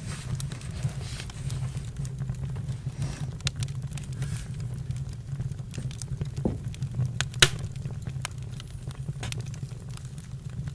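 Campfire crackling: irregular pops and snaps over a steady low rumble, with one sharp louder pop about seven seconds in.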